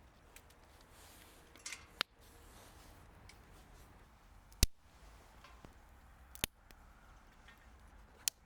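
Four sharp, isolated clicks or snaps about two seconds apart, the loudest in the middle, over faint steady background noise.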